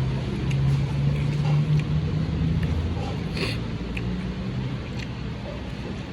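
A motor vehicle's engine running steadily with a low hum, with a brief hiss a little past the middle.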